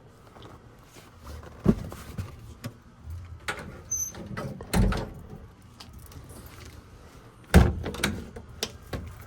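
A series of door clunks and thumps with small handling clatter in between, three heavier knocks standing out, the last near the end the loudest.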